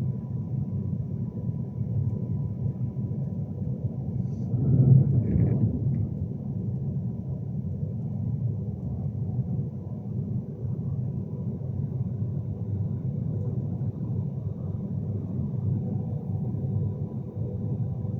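Interior running noise of a Class 390 Pendolino electric train moving slowly: a steady low rumble with a faint steady hum. A brief louder swell comes about five seconds in.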